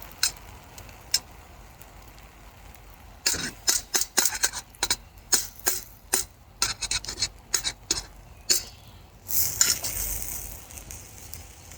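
Irregular clicks and clinks of metal cooking utensils against a pan over a campfire, with a short hiss about nine seconds in.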